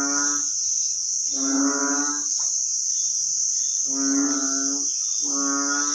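Repeated short, low animal calls, each under a second and about four in six seconds, over a steady high-pitched insect drone.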